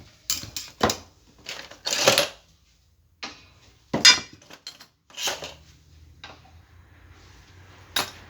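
Metal parts and tools clinking and knocking as they are handled, about a dozen separate sharp strikes. A low steady hum comes in a little past halfway.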